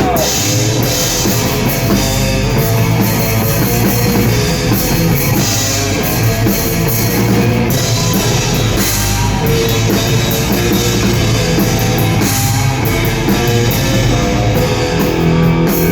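Rock band playing a loud instrumental passage live, with drum kit and guitar, before the vocals come in.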